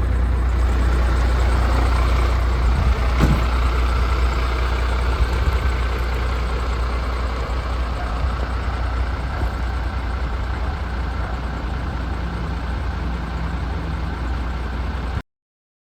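MAN TGX 470 hp Euro 6 truck's 12.4-litre straight-six diesel running steadily with a low, even hum. The sound cuts off suddenly near the end.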